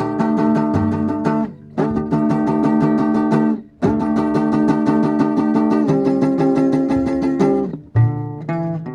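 Guitar music, strummed in quick, even strokes, pausing briefly about a second and a half in and again near four seconds.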